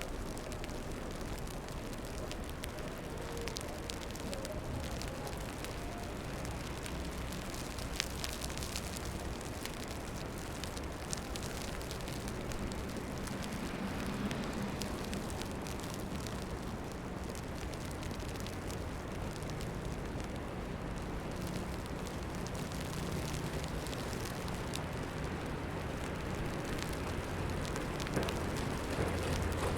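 Snowstorm street ambience: a steady crackling hiss with a low traffic hum underneath that grows stronger near the end, and a couple of faint clicks.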